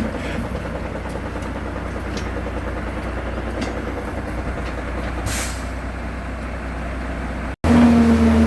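Heavy diesel truck engine running steadily, with a short burst of air hiss about five seconds in. Near the end the sound cuts abruptly to a louder, steadier drone carrying a humming tone.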